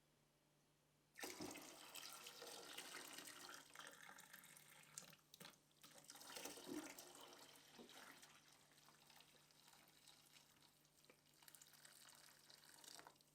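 Faint rushing, like water running from a tap, with a few light clicks. It starts suddenly about a second in, dips briefly midway and stops near the end.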